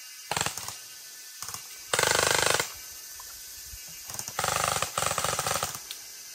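Electric gel blasters (water-bead guns) firing in rapid automatic bursts: a short burst near the start, a longer one about two seconds in, and a longer run of rapid fire from about four to six seconds in.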